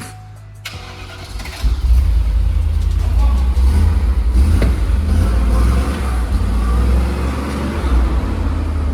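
A car engine running with a deep, steady rumble that comes in loudly about a second and a half in.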